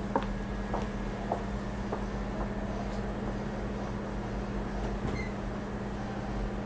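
Cabin noise inside a Hanshin 1000 series electric commuter train: a steady low hum with a constant drone. A few light clicks come about every half second in the first two seconds.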